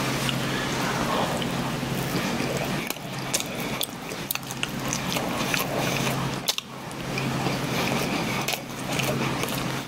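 A person chewing a soft chocolate bun, with short wet mouth clicks and smacks scattered through, over a steady low hum.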